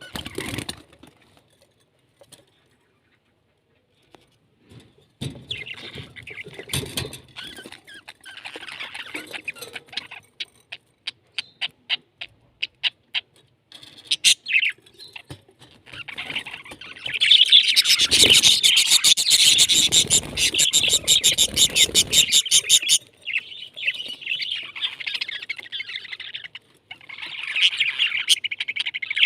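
Pet parrots chirping and chattering: after a few quiet seconds, scattered chirps turn into a run of quick repeated chirps, then a louder stretch of rapid chatter in the second half, with more chirping near the end.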